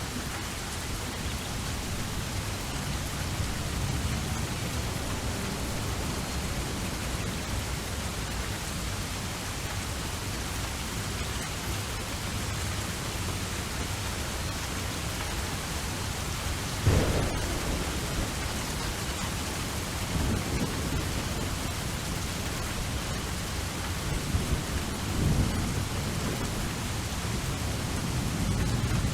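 Steady rain falling, with low rolling thunder underneath. A sharp, loud thunderclap comes a little past halfway, and more low rumbles follow near the end.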